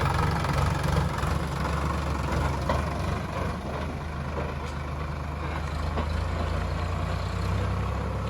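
Heavy diesel engine running steadily at low revs, with a few faint clicks and knocks over it.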